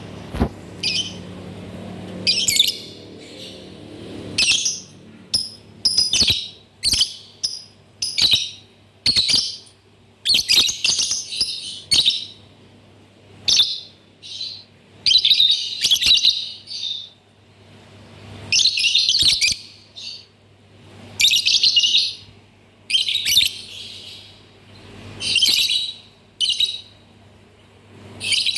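Lovebird chattering in repeated bursts of shrill, high chirps, each lasting up to a couple of seconds, with short pauses between.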